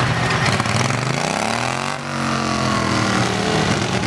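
Pulling lawn mower engine running hard under load. Its pitch swings, with one set of tones rising and another falling, crossing about two seconds in.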